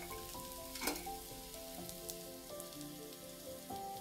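Onions and spices sizzling steadily in hot oil in a steel kadai. There are sharp clinks from a steel spatula knocking and scraping the pan, once about a second in and again near the end.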